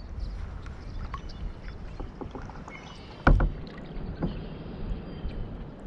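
Paddling a small fishing boat: a paddle dipping and splashing, with light clicks and knocks and one loud knock about three seconds in.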